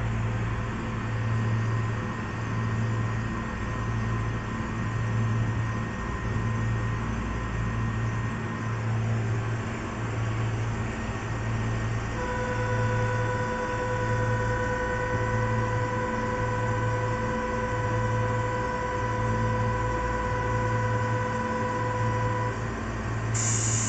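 Interior of a stopped Keihan 600-series train car: its onboard equipment gives a low hum that pulses about once a second. About halfway in a steady pitched tone starts and runs until shortly before the end. Near the end a burst of hiss comes as the doors begin to close.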